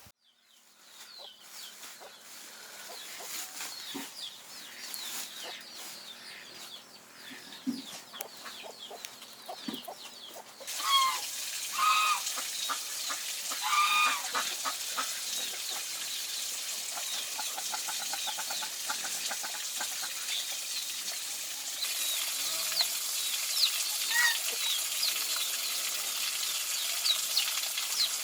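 Chickens clucking, with a few louder pitched calls about eleven to fourteen seconds in, over a steady background hiss dotted with many small high chirps.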